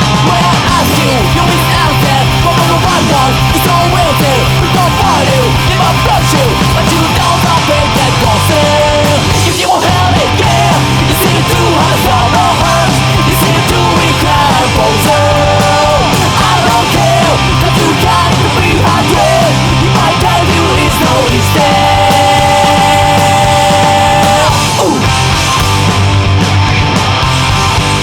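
Melodic punk rock song with distorted electric guitars, bass and drums and a shouted lead vocal; about three-quarters of the way through, a note is held for a few seconds.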